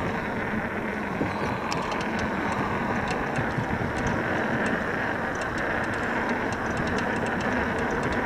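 Steady rolling and wind noise of an EGO Seagull 500W 48V electric bike being ridden, with scattered sharp ticks starting about two seconds in.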